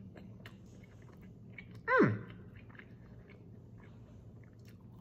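A person chewing a bite of breaded fried fish fillet, with small crunching clicks. About two seconds in, a short, loud vocal sound slides steeply down in pitch.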